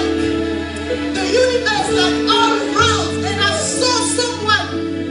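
Worship music: held keyboard chords and bass notes under a solo voice singing.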